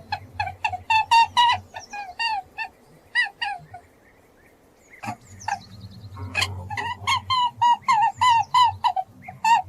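A bird calling in quick, short, repeated notes, several a second, with a pause of about a second midway.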